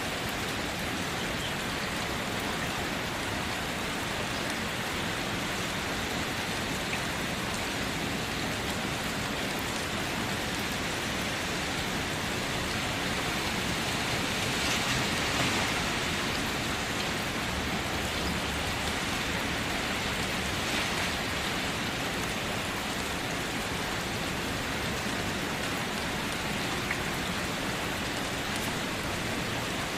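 Steady rain falling, an even hiss of drops, swelling slightly about halfway through.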